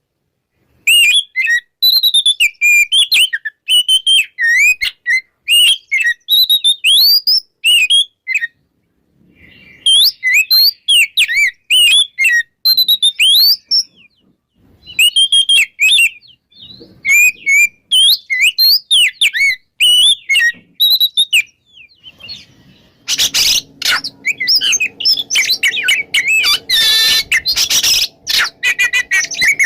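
Oriental magpie-robin singing loudly in rapid, varied whistled phrases, broken by short pauses. About three-quarters of the way through, a rough noise with a low steady hum joins under the song and lasts to the end.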